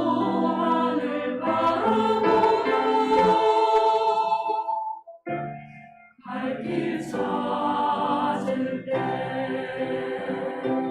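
Church choir singing a sacred anthem in parts, with held notes; the singing breaks off briefly a little past halfway, then comes back in.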